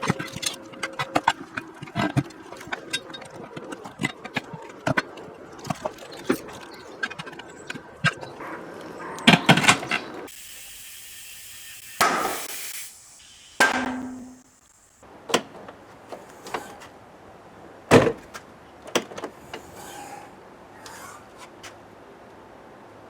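Hand tools at work on a car: scattered metallic clicks and knocks with ratchet clicking, the loudest clatter about nine seconds in and a sharp knock near eighteen seconds in.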